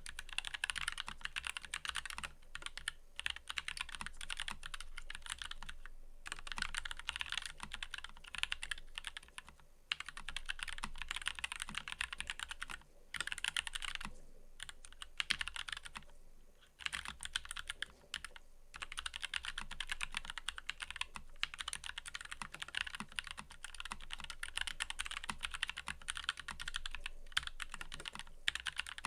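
Fast typing on a mechanical keyboard: steady runs of rapid key clacks, broken by short pauses every few seconds.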